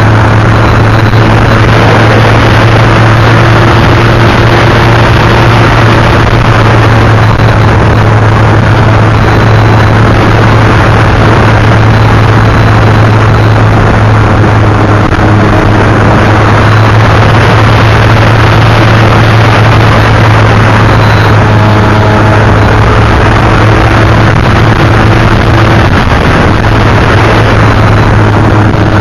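Model airplane motor running at a steady, unchanging pitch, very loud and close, with a rushing noise over it.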